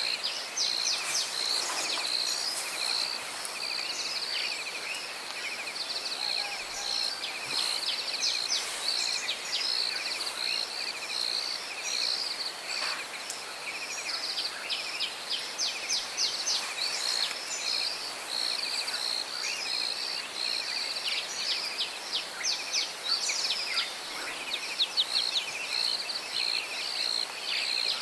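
Outdoor chorus of insects trilling in steady rapid pulses, with birds chirping over it throughout.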